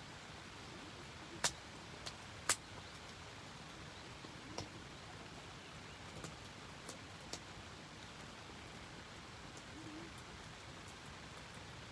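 Steady rain with a wood fire crackling over it: two sharp pops about one and a half and two and a half seconds in, then lighter crackles scattered through.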